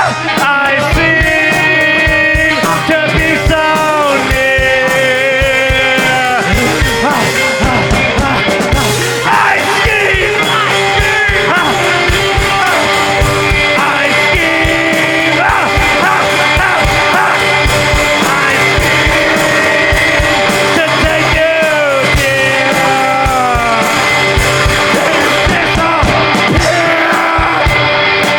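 Rock band playing live through an instrumental passage of the song, with a lead line bending and sliding between notes over steady drums and held chords.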